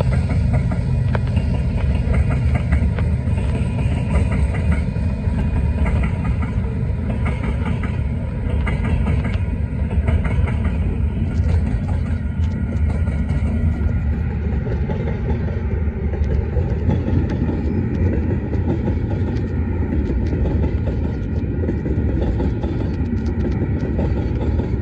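Freight train of tank cars and covered hoppers rolling past at speed: a steady rumble of steel wheels on rail, with clicks from wheels crossing rail joints.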